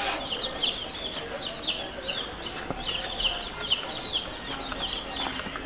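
Birds chirping continuously, several short high chirps a second.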